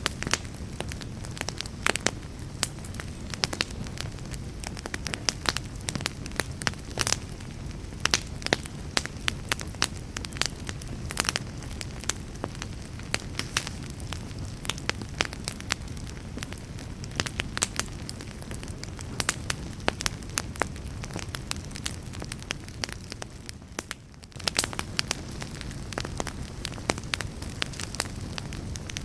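Campfire crackling, with many sharp irregular pops and snaps over a steady low rumble of flames; the fire dips briefly quieter about 24 seconds in.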